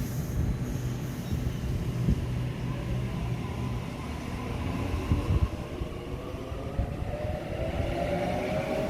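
Electric suburban train running at a station platform with a steady low rumble; about six seconds in, its traction motors start a rising whine as it accelerates away.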